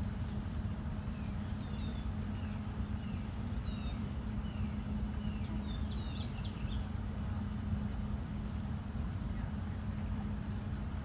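Short downward-sliding bird chirps, repeated many times over the first seven seconds or so, over a steady low rumble.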